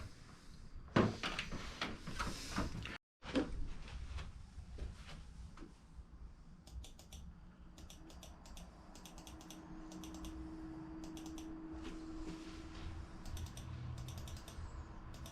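Computer keyboard keys being pressed in several short runs of clicks, over a low steady hum.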